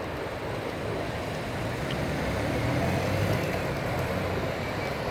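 Steady road traffic noise with a low engine rumble; a passing vehicle makes it swell a little in the middle.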